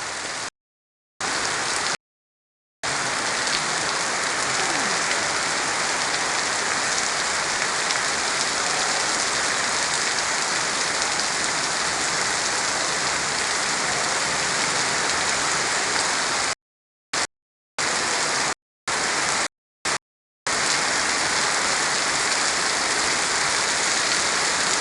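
Heavy rain falling steadily, an even dense hiss. The sound cuts out to total silence twice near the start and several times in quick succession past the middle.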